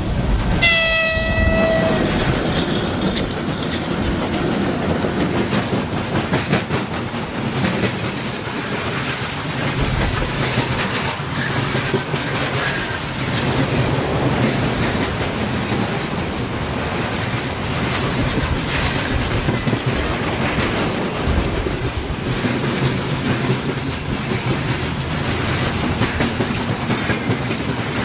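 A 3ES5K "Ermak" electric locomotive sounds a short, high horn blast of about a second and a half, right at the start. Its freight train then rumbles steadily past, with wheels clattering over the rail joints.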